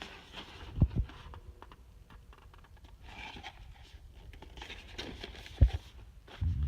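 Handling noise from a small cardboard model box being turned in the hands: faint rustling and light scuffs, with a few dull low thumps, two about a second in and the loudest near the end.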